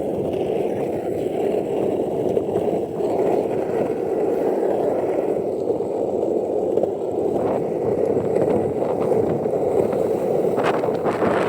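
Skateboard wheels rolling fast down an asphalt street, a steady rumbling roar, with a few sharp clicks near the end as the wheels cross cracks or grit.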